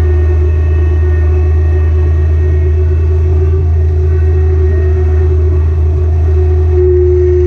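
Kubota BX Series compact tractor's three-cylinder diesel engine running steadily under work, a loud low drone with a higher whine that grows louder near the end.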